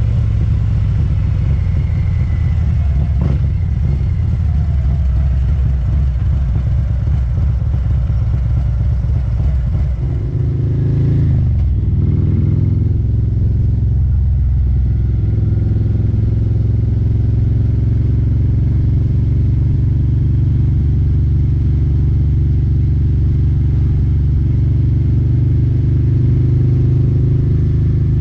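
2019 Harley-Davidson Street Glide CVO's Milwaukee-Eight 117 V-twin running through Khrome Werks Aggressor headers and slip-on mufflers while riding. The engine note holds steady, eases off briefly with the revs dropping about ten seconds in, then picks back up and runs steadily again.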